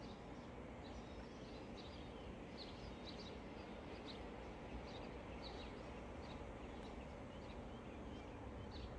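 Faint chirping of small birds, many short high chirps a second or so apart, over a steady low background rumble.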